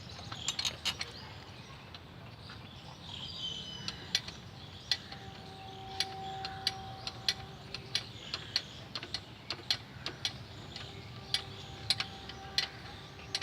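Irregular sharp metallic clicks and ticks of hand tools and bolts as gearbox mounting bolts are fitted by hand, with no steady rhythm.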